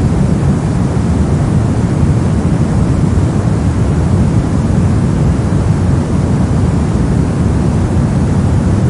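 Steady synthetic 'soft' white noise, weighted toward the low end so it sounds deep and rumbling rather than hissy, with no change in level.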